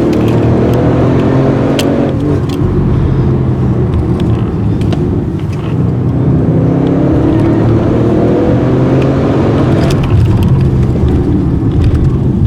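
Audi RS6's twin-turbo V8 under hard acceleration, heard on board: the engine note climbs in pitch and drops at each upshift, about two seconds in and again near ten seconds.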